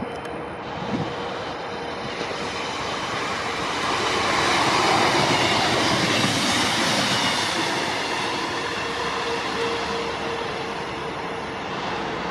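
Northern Class 158 diesel multiple unit passing close at speed: running rail noise and engine, loudest about five seconds in as the cars go by, then easing off.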